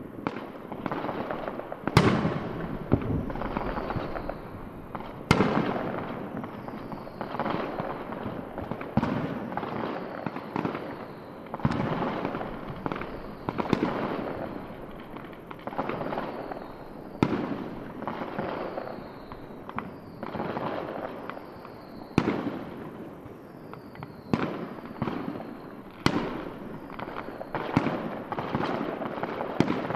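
Fireworks display finale: aerial shells bursting in quick succession, sharp bangs every second or two over continuous crackling, with short falling whistles.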